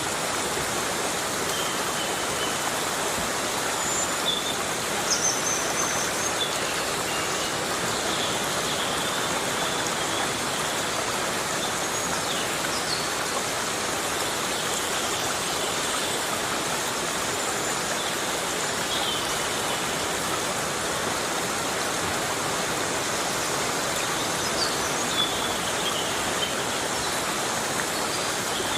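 Heavy rain falling steadily in a tropical forest, an even rushing hiss. A few faint, brief high chirps sound now and then through it.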